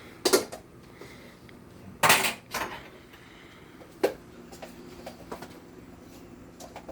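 Kitchen clatter of pots, pans and utensils being handled: a few separate knocks and clanks, the loudest and longest about two seconds in and a sharp one about four seconds in.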